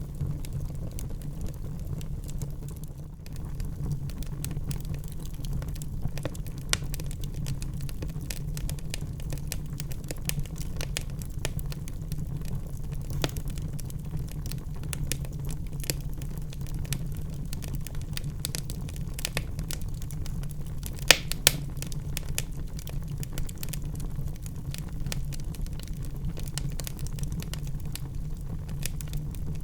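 Wood fire burning in a fireplace, crackling with a dense run of small clicks and snaps over a steady low rumble. Two louder pops come about two-thirds of the way through.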